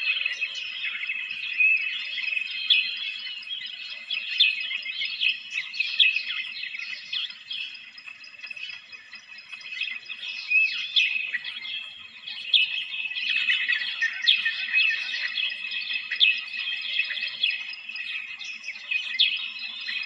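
A dense chorus of small birds chirping and twittering, many short high calls overlapping without a break.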